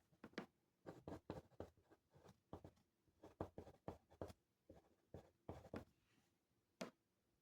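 Handwriting on paper: faint, irregular short scratchy strokes, with a brief pause before one last stroke near the end.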